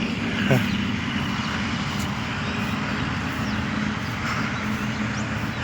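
A steady low drone of a distant engine under outdoor background noise.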